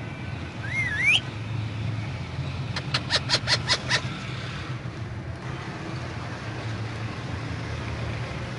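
Indian ringneck parrot giving a short rising whistle, then a quick run of about seven sharp calls, over a steady low hum.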